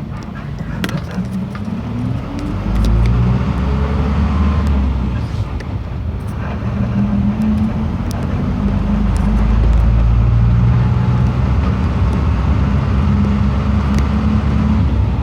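Motor vehicle engine running with heavy road rumble; its pitch rises over the first few seconds as it accelerates.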